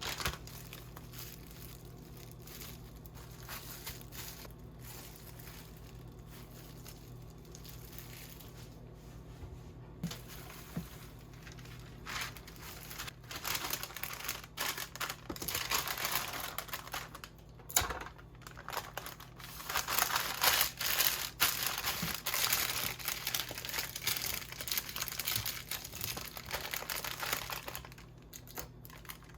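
Packaging crinkling and rustling as it is handled, sparse at first and busier from about halfway through, over a faint steady low hum.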